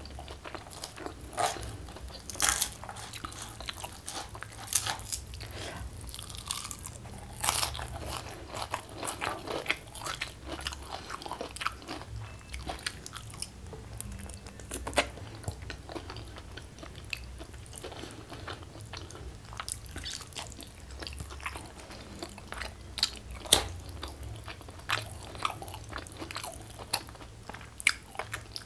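Close-miked eating: biting and chewing pieces of spicy chicken taken by hand, with many irregular sharp, crunchy mouth clicks. The loudest click comes about two-thirds of the way through.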